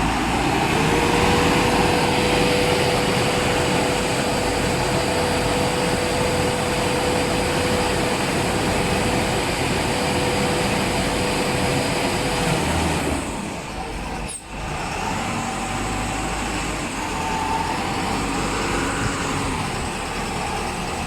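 LUZUN LZ3500 self-loading concrete mixer running, a steady loud machine noise with a steady whine over it through the first half. About two-thirds of the way through the sound dips briefly, then carries on a little quieter.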